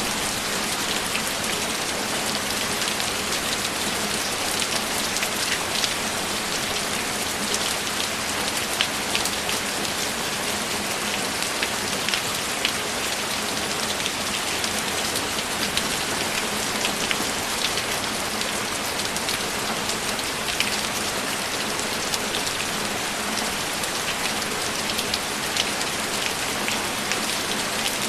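Steady rainfall, a constant hiss dotted with many sharp individual drop ticks.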